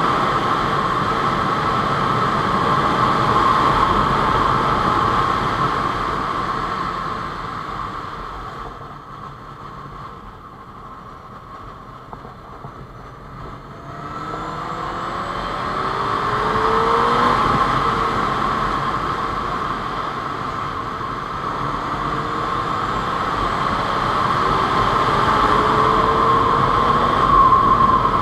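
Honda CBR600 F4i's inline-four engine with wind noise while riding. The engine note falls away as the bike slows for a tight bend about eight seconds in. From about fourteen seconds in it climbs again in several rising sweeps, accelerating up through the gears.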